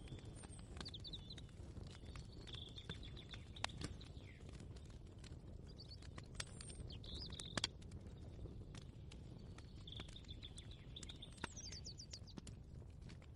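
Small birds chirping in short trilled phrases, several times over a steady low background rumble. A few sharp clicks stand out, the loudest a double click about seven and a half seconds in.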